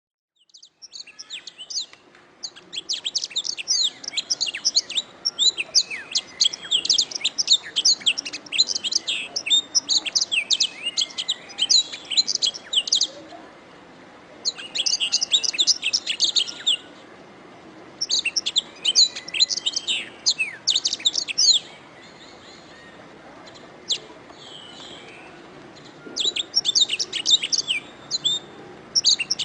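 Domestic canary singing: long runs of fast, high trills and chirps, several seconds each, broken by short pauses and one longer pause with only a few scattered notes about two-thirds of the way through.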